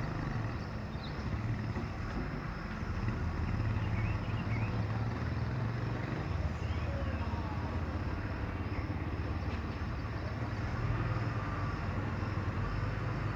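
Low, steady hum of workshop machinery running next door, swelling and easing a little in level, with no break.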